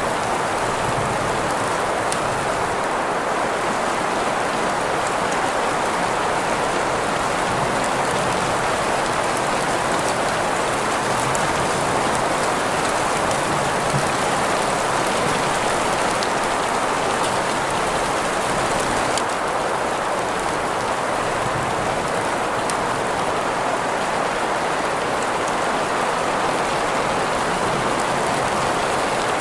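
Steady green noise, an even hiss strongest in the middle range, mixed with falling rain, with faint scattered drop ticks above it.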